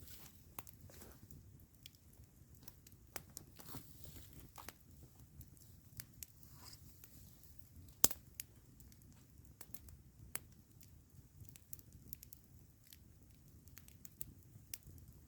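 Campfire crackling: irregular small pops and snaps over a low steady background, with one louder pop about eight seconds in.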